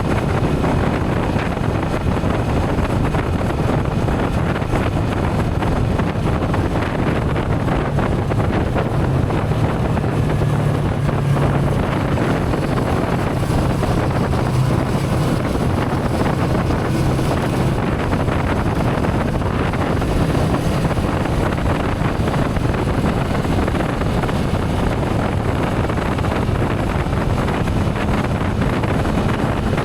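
Wind rushing over the microphone of a moving motorcycle, with the motorcycle's engine running steadily underneath at cruising speed.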